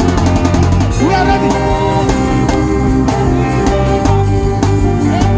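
Live worship band music with a steady drum beat under long held chords, and a voice singing over it in the first part.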